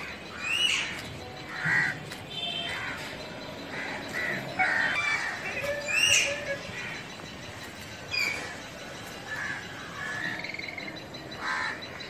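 Several birds calling: a scatter of short chirps and squawks, with two louder rising calls about half a second and six seconds in.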